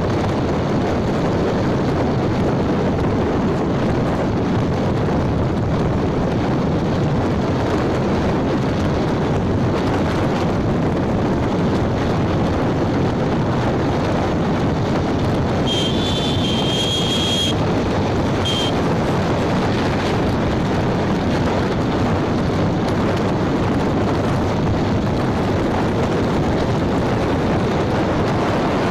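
Steady wind rush on the microphone and road noise from a moving motorbike. About halfway through, a high-pitched beep sounds for about a second and a half, then once more briefly.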